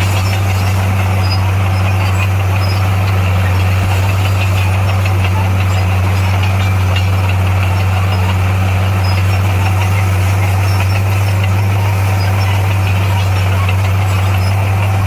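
Heavy earthmoving machine's diesel engine running steadily, a deep, even drone that does not change in pitch or level.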